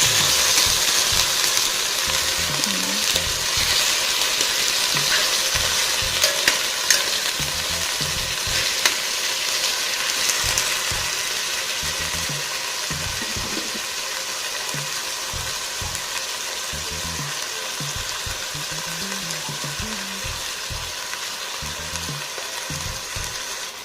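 Chicken pieces sizzling as they fry in hot oil in a pan, loudest at first and slowly dying down. A few sharp clicks come partway through.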